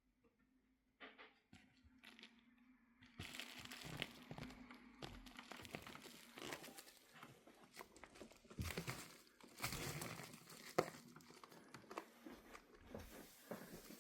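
Crinkling and rustling, like a crumpled bag or wrapper being handled, with irregular crackles that start about three seconds in.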